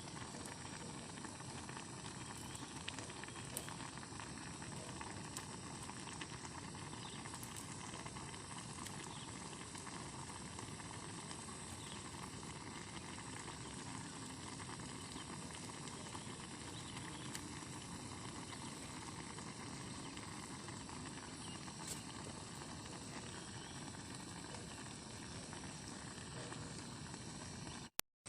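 Steady rain falling, an even hiss with a few faint drops ticking now and then.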